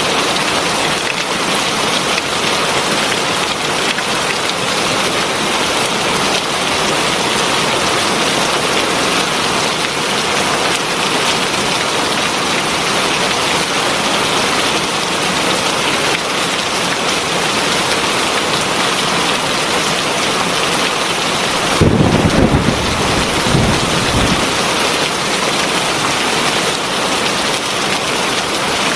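Heavy rain falling steadily in a dense, even hiss. About 22 seconds in, a brief low rumble of thunder rises under it for a couple of seconds.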